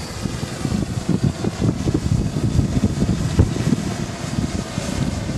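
Gusty wind buffeting the microphone: a loud, uneven low rumble that rises and falls with the gusts.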